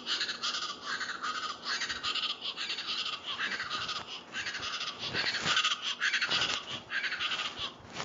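East Brazilian chachalaca (Ortalis araucuan) calling: a long run of rapid, repeated calls that stops shortly before the end.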